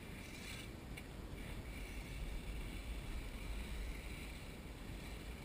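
Wind rumbling on the microphone, with the faint whine of the Team Durango DEST 210 stadium truck's brushless electric motor and drivetrain coming and going as it drives across grass.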